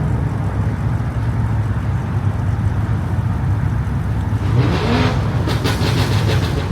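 Vehicle engine running with a steady low rumble, with a brief rise and fall in pitch about four and a half seconds in and a quick run of clicks near the end.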